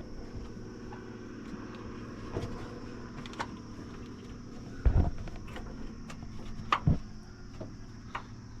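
A few sharp knocks and clanks, the loudest about halfway through and again a couple of seconds later, over a steady low hum, during heavy roadside work on a truck.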